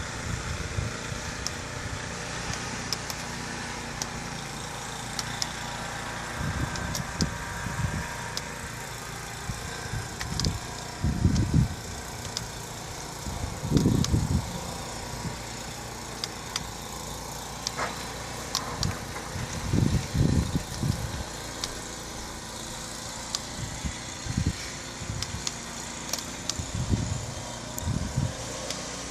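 Blizzard wind blowing steadily, with gusts buffeting the microphone in low rumbles every few seconds.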